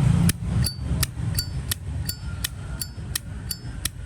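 Zippo lighter's metal lid being flicked open and snapped shut over and over: a steady run of sharp metallic clicks, about three a second, many with a short high ring. A low rumble stops about a third of a second in.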